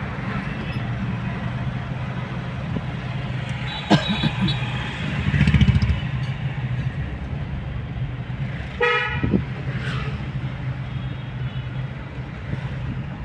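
Mahindra Bolero engine running steadily in city traffic, heard from inside the cabin, with a brief louder rumble around five and a half seconds in. A short vehicle horn honk sounds about nine seconds in, with a fainter one just after.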